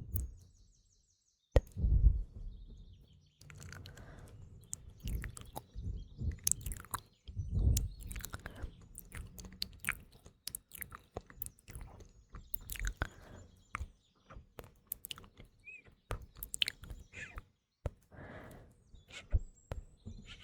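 Close-miked ASMR mouth sounds: wet clicks and smacks of lips and tongue in quick irregular runs, with a short silent gap near the start. Morning birdsong chirps faintly behind them.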